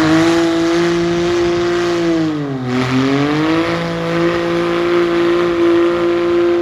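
A car engine is revved hard and held at high revs with a steady note. About two and a half seconds in it sags briefly, then climbs back and holds high again.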